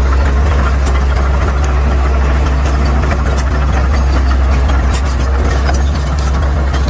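Caterpillar D6R XL bulldozer's diesel engine running steadily with a deep, even hum, with scattered light clicks over it.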